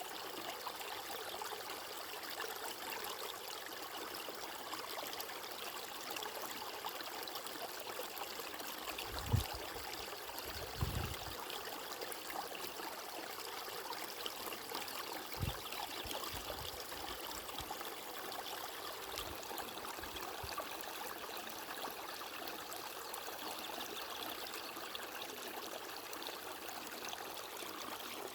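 Stream water flowing steadily. A few brief low thumps come about nine, eleven and fifteen seconds in.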